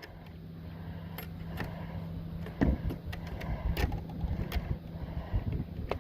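Clicks and knocks from handling a removable part of a wooden chicken coop, the loudest a low thump about two and a half seconds in, over a low steady hum.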